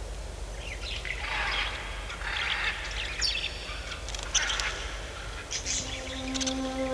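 Several birds calling and chirping, with short harsh calls among higher chirps. A steady, sustained music chord comes in near the end.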